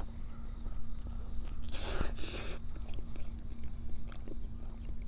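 A person chewing food, with small mouth clicks and a brief noisy rustle or breath about two seconds in, over a steady low hum.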